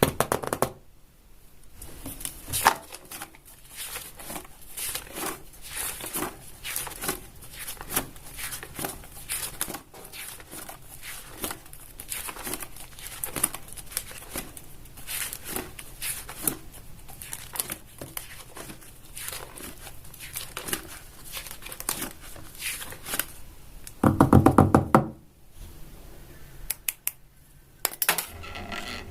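Paper being handled in a rapid run of small crinkles, crackles and light taps. About 24 seconds in there is a brief, loud sound with a clear pitch, followed by a few sharp clicks.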